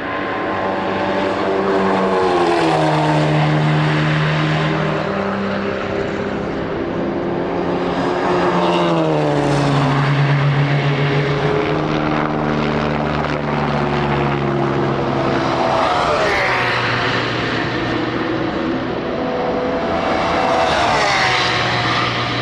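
Race cars passing one after another, their engine notes dropping in pitch as each goes by, about four passes.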